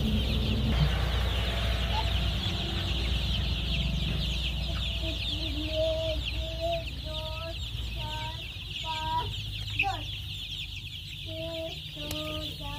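Many chicks cheeping at once in a dense, continuous chorus. From about five seconds in, short lower calls repeat every half second or so.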